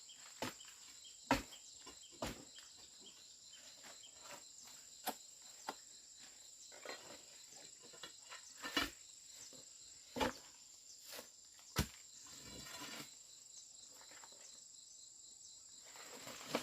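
Irregular sharp knocks and clicks, a dozen or so, over a steady high insect drone, likely crickets or cicadas.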